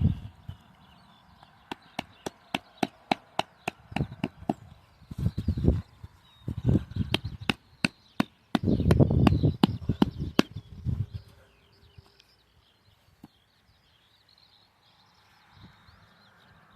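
Tent peg being hammered into the ground: a run of about a dozen sharp knocks, roughly three a second, for the first half. Heavy low rumbles come and go, loudest around the middle.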